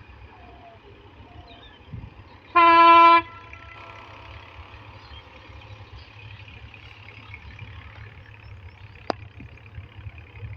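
One short horn blast, a single steady note lasting about half a second, a little over two and a half seconds in, over a steady low rumble; a sharp click comes near the end.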